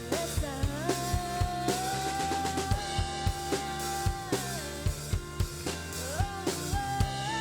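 Band music: a drum kit keeps a steady beat under sustained chords, while a lead line holds long notes and slides up into them.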